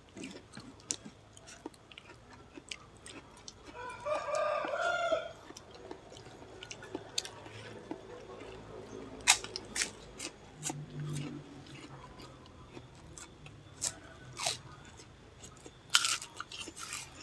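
Close chewing and crunching of a meal with crackers, as scattered short crunches throughout. About four seconds in, a rooster crows once for over a second.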